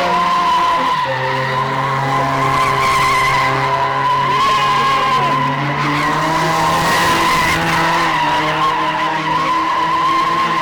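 A car spinning its tyres in a burnout or donut: a continuous loud tyre squeal over an engine held at high revs, with the engine note dropping and rising a couple of times.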